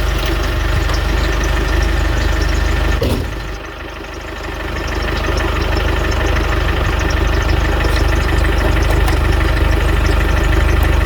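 Car engine idling steadily. A single sharp knock about three seconds in, after which the engine sound goes quieter for a couple of seconds and then comes back up to its earlier level.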